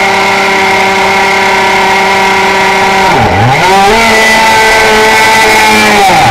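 A Honda RS125 two-stroke racing engine is held at high, steady revs on the start line. About three seconds in, the revs dip sharply and climb back as the bike launches. The revs dip and recover once more near the end.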